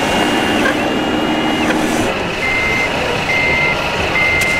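Reversing beeper on an RC model construction vehicle, starting about halfway through and sounding three evenly spaced beeps, under a steady background hubbub.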